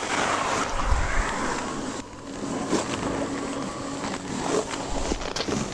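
A vehicle running on the roadside with wind on the microphone: a broad rushing noise that swells in the first couple of seconds, then a steady low hum with a few light knocks.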